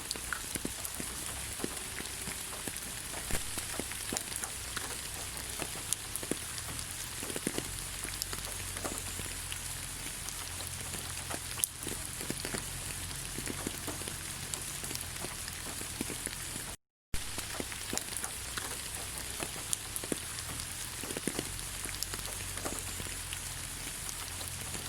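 Steady rain falling on leaves: a continuous hiss with many separate drops pattering. The sound cuts out for a split second about seventeen seconds in.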